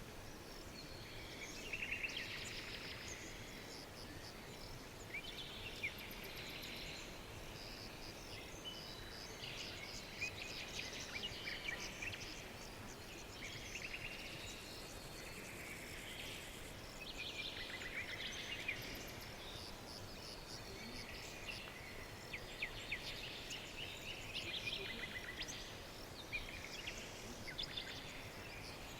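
Several songbirds singing and chirping in overlapping quick phrases, one after another, over a steady background hiss of ambient noise.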